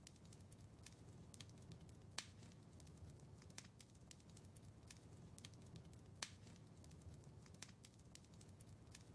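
Faint wood fire crackling in a fireplace: irregular sharp pops and snaps over a low steady rumble, with the two loudest pops about two and six seconds in.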